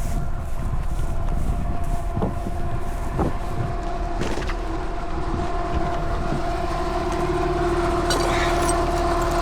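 Outdoor air-conditioner condensing unit running with a loud, steady rumble and a droning hum that grows stronger in the second half. The noise comes from its failing condenser fan motor, which needs replacing.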